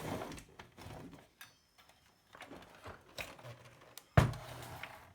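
Irregular clicks, scrapes and knocks of hand work on an electronics bench while a part is cleaned for soldering, with a sharper, louder knock about four seconds in.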